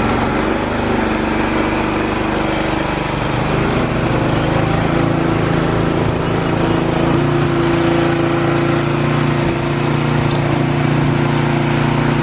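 Small gasoline engine of a snowblower running steadily, its pitch stepping up slightly about three seconds in and again about seven seconds in.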